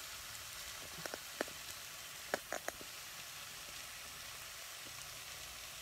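Chicken pieces and poblano pepper strips sizzling in a saucepan: a steady hiss with a few small pops between about one and three seconds in.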